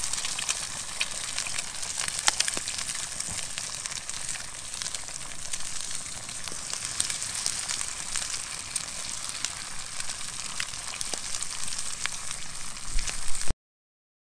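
Eggs and bacon frying in a metal pan over a campfire: a steady sizzle with many scattered pops and crackles. It cuts off abruptly to silence near the end.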